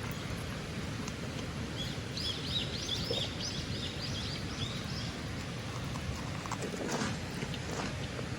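A songbird singing a quick run of repeated, arching high notes for about three seconds, over a steady outdoor rush, with a few faint clicks near the end.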